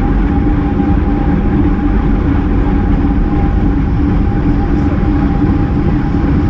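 Steady wind rush and road rumble from a bicycle-mounted action camera riding at race speed, with a constant low hum running through it.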